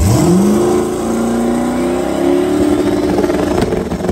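A race vehicle's engine revs up sharply in the first half second, then runs loud at high, fairly steady revs.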